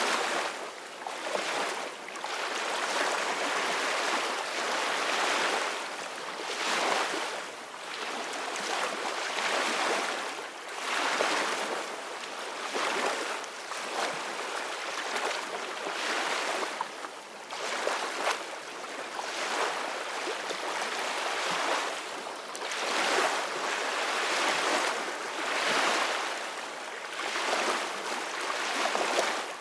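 Ocean waves washing in and breaking, a steady surf that swells and ebbs every couple of seconds.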